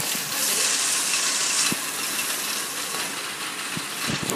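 Heavy rain falling: a steady hiss, a little louder over the first second and a half, with a few sharp ticks.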